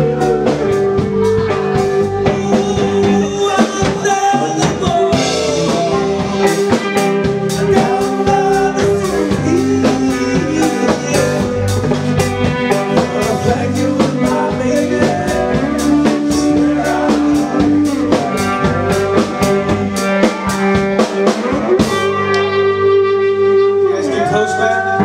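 A band playing a blues-soul number: drum kit beating steadily under guitar, with singing.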